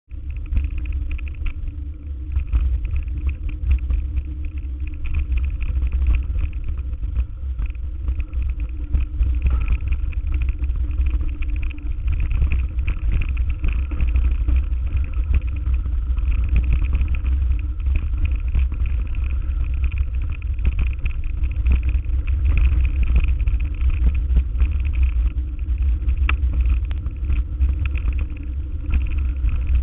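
A motor vehicle on the move: a steady low rumble with many small knocks throughout.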